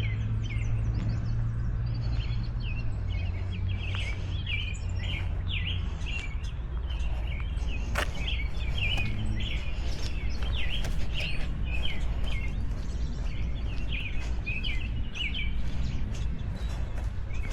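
Several birds chirping and singing busily, over a steady low outdoor rumble.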